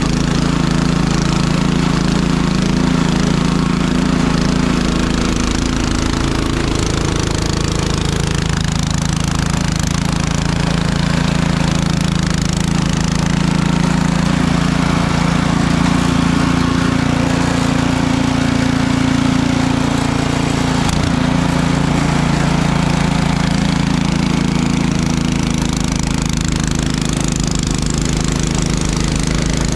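A small engine running steadily, its speed dropping a few seconds in and changing slightly again later.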